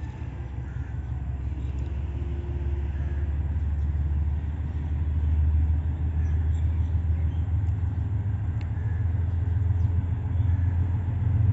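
Low rumble of a train approaching the station, growing steadily louder.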